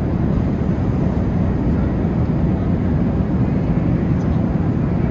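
Steady low rumble of an Airbus A380 cabin in flight: engine and airflow noise, even and unchanging.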